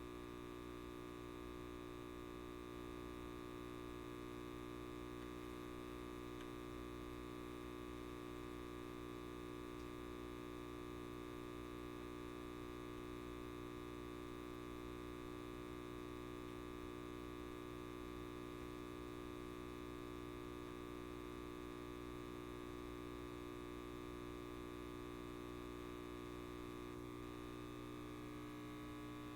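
Steady electrical buzz of a light bulb: a constant hum with many overtones up to a high whine, unchanging throughout.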